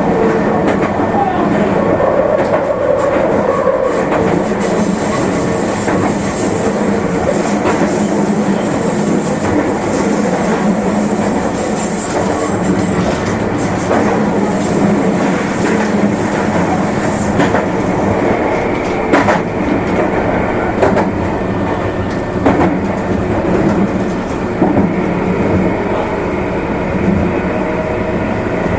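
Meitetsu limited express electric train running on the Nagoya Main Line, heard from inside the car. There is a steady rumble of wheels on rail with a hum from the running gear, and clicks of the wheels over rail joints in the second half.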